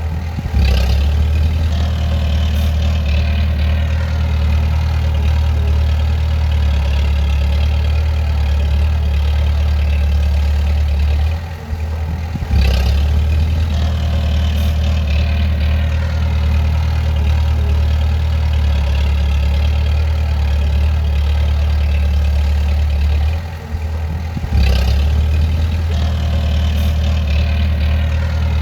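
Bulldozer's diesel engine running steadily with a deep low note. Three times, about 12 seconds apart, the engine note dips for a moment and then picks up again.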